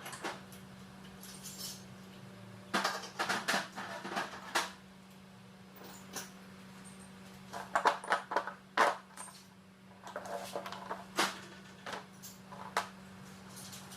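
Irregular metallic clinks and knocks of hand tools and metal parts being handled during engine work, in short clusters with the loudest about eight to nine seconds in, over a steady low hum.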